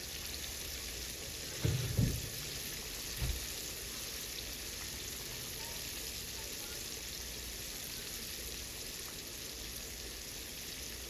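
Flour-coated chicken pieces frying in hot grease in a pan: a steady, even sizzle. A few dull thumps come about two seconds in and again a little after three seconds.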